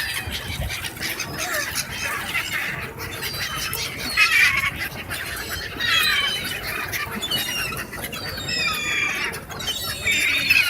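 A flock of birds calling: many shrill, overlapping calls, many of them sliding down in pitch, with louder clusters about four and six seconds in and again near the end.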